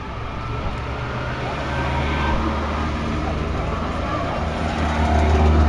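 Goggomobil microcars with small two-stroke twin-cylinder engines driving slowly past one after another. Their low, steady engine hum grows louder toward the end, with crowd voices mixed in.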